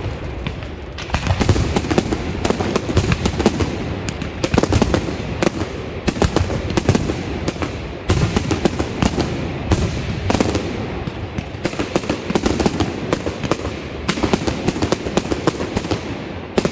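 Fireworks going off: dense, rapid cracks and bangs that swell into a fresh volley every couple of seconds.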